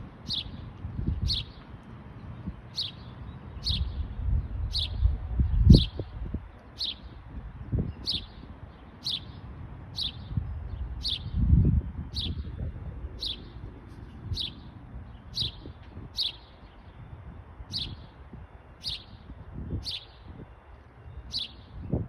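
A small songbird gives a single falling chirp over and over, very evenly, about every three-quarters of a second; the uploader suggests it may be a house sparrow. Beneath it runs a low rumble on the microphone, loudest about six and twelve seconds in.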